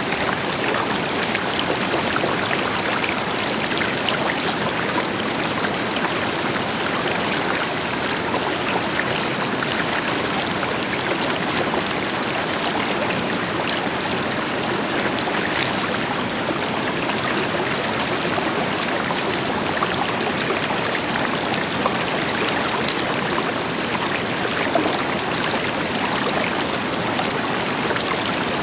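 River water flowing steadily over rocks, a continuous rush with small splashes and gurgles, and the deeper hiss of a distant waterfall blended in.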